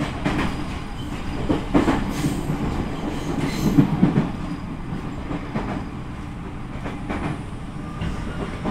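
Running sound of a JR Central 313 series electric train, heard inside the passenger car: a steady low rumble of wheels on rail, broken by short clacks over rail joints, the loudest a few seconds in.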